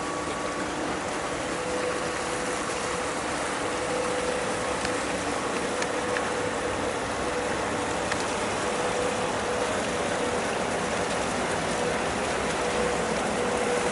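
Steady rush of water along a small boat's hull under way, with a faint steady hum that fits the electric trolling motor.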